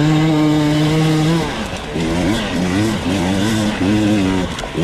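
KTM 300 EXC TPI two-stroke enduro bike engine, first holding a steady note, then revving up and down repeatedly, about twice a second, as the throttle is worked.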